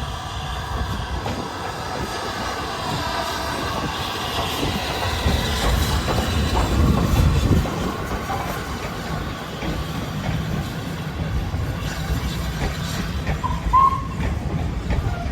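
A train running past close by: rumble of wheels on the rails with a high, steady squeal from the wheels, loudest about seven seconds in.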